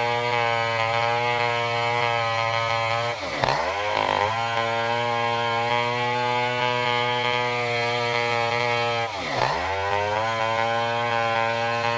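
Stihl 070 large two-stroke chainsaw running under load while ripping a durian trunk lengthwise. The engine holds a steady note, and twice its pitch dips sharply and climbs back as the saw bogs and recovers in the cut.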